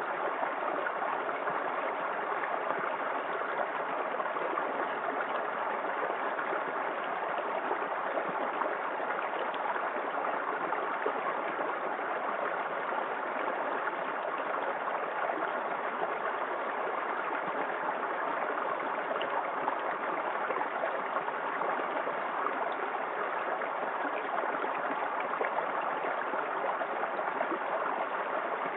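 Small waterfall in a forest creek: water splashing and rushing steadily, with no change in level.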